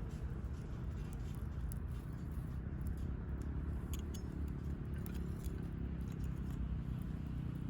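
Low, steady wind rumble on the microphone, with faint, sparse crackles from a wood campfire.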